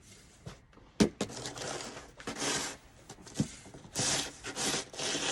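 Snow shovel scraping and scooping snow on a driveway, several rough strokes of about half a second each, with a sharp knock about a second in.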